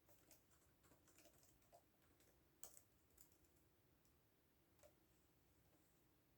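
Faint typing on a computer keyboard: irregular keystroke clicks in quick runs, with one louder keystroke near the middle and a single stray click later.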